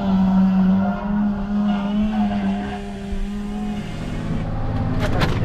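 A vehicle engine running at a steady high pitch, which drops away about four seconds in. A few sharp knocks come near the end.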